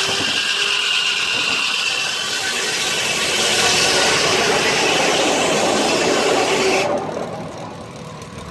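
Sawmill circular saw, driven by a steam traction engine, cutting through a log with a loud rasp and a steady high whine; about seven seconds in the cut ends and the sound drops abruptly to a quieter run.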